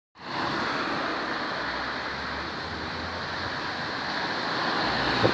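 Strong gusty wind rushing steadily, with wind buffeting the phone's microphone as a low rumble. It cuts in abruptly at the very start.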